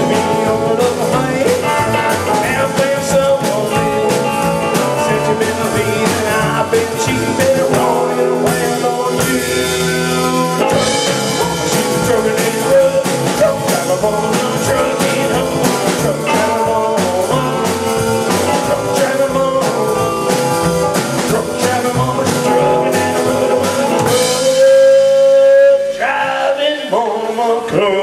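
Rock band playing an instrumental section of a blues-rock song, with drum kit and guitar.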